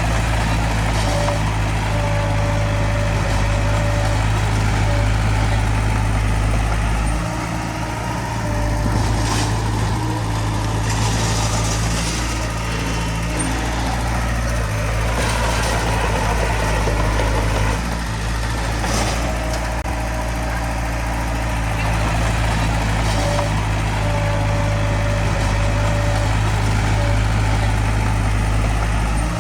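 Diesel engine of a small Komatsu D20P bulldozer running steadily while it works, its note shifting slightly a few times, with occasional short clanks.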